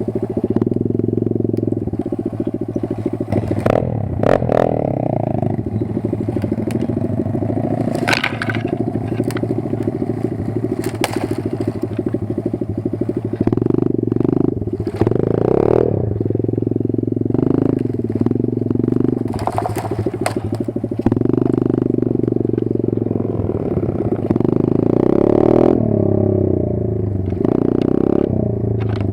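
Kayo 140 pit bike's single-cylinder four-stroke engine running under load, its revs rising and falling, with scattered knocks and clatter.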